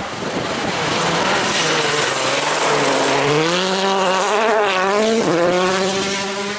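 A World Rally Car's turbocharged engine driven hard, its note rising and falling through gear changes, with a bright hiss about two seconds in.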